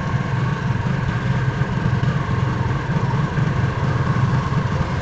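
Harley-Davidson V-twin motorcycle engine running steadily at low revs, with an even, lumpy low note and no revving.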